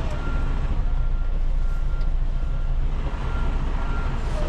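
Semi truck's diesel engine running at low speed while maneuvering at a loading dock, with a backup alarm beeping about once a second over the low rumble.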